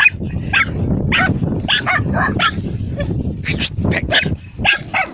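Several dogs barking and yelping in quick, overlapping bursts while attacking a large lizard, with a brief lull near the end.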